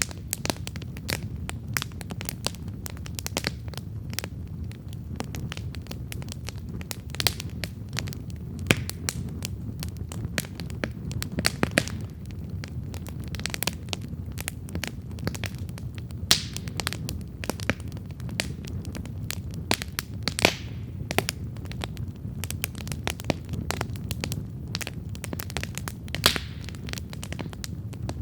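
Wood campfire burning steadily, with dense irregular crackling and occasional louder sharp pops over a low, steady rumble of the flames.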